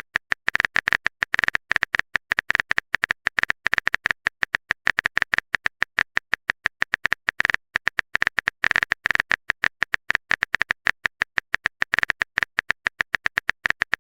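Typing sound effect: a fast, uneven stream of short clicks, about ten a second, like keys being pressed on a keyboard.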